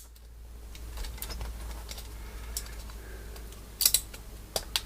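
Keyboard switches from old Cherry G80 keyboards being handled and pressed into the plate: a few faint scattered clicks, then a sharper cluster of clicks a little under four seconds in and another near the end.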